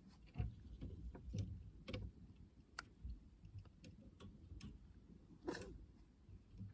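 Fishing rod and reel being handled: scattered faint clicks and light knocks at irregular intervals.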